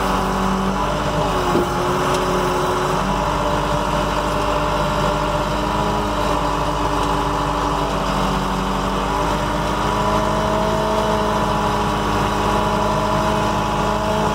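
Tow truck engine running steadily at low speed, its pitch holding nearly level with only small shifts.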